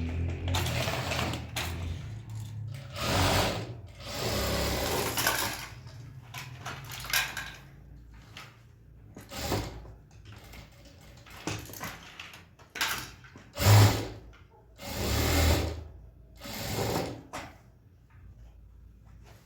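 Sewing machine stitching in stop-start runs. Longer runs of a second or more come near the start, and shorter bursts with pauses between them follow.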